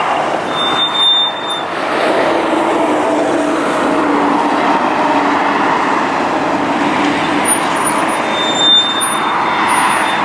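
A motor vehicle's engine running, mixed with a loud, steady rushing noise.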